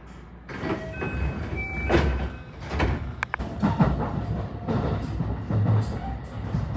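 JR West 223 series 5000 electric train running on the rails. It grows louder about half a second in, with the wheels clicking over rail joints and points and thin whining tones for the next couple of seconds.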